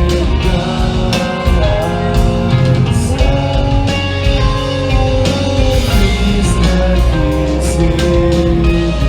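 A punk/emo band playing live and loud: electric guitars holding chords over bass and drums, with cymbals crashing throughout.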